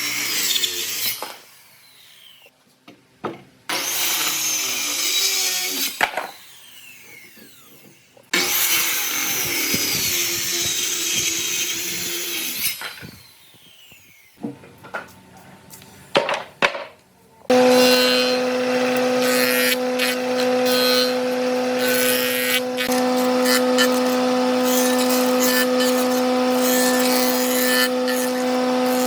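Power tool working wood in three bursts of a few seconds each, with short pauses between. About two-thirds of the way in, a power tool motor starts running steadily with an even hum.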